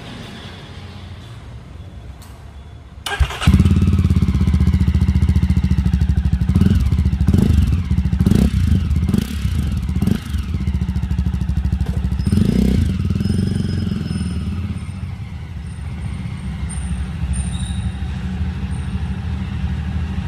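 Jawa 42 motorcycle's single-cylinder engine heard at the exhaust. After a quieter first three seconds, loud running cuts in suddenly. Several quick throttle blips follow in the middle, then a steady idle toward the end.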